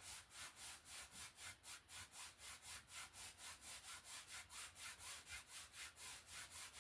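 Stiff paintbrush bristles scrubbing back and forth on a dry stretched canvas in quick, even strokes, about five a second, laying in water.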